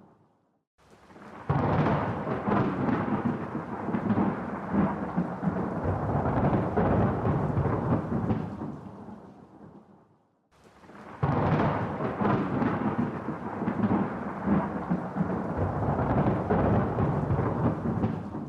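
Two long rolls of thunder. Each breaks in suddenly and rumbles for several seconds before fading out, with a moment of near silence between them.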